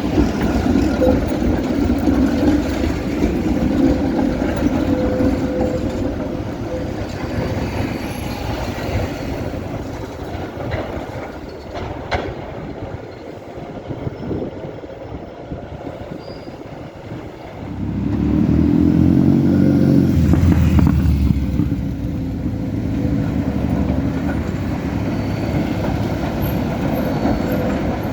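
Antwerp city tram running on its rails: a steady rumble with a thin steady whine, dipping quieter partway through. A louder low rumble then swells up about two thirds of the way in and holds.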